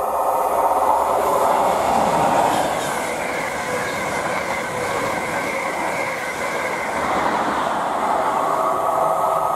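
Class 90 electric locomotive and its coaches running through at speed: a steady rush of wheels on rail, with a thin high whine from the wheels through the middle.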